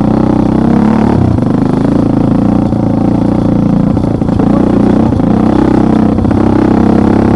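Motorcycle engine running steadily while riding, its pitch wavering slightly with the throttle, with a brief dip in revs about four seconds in.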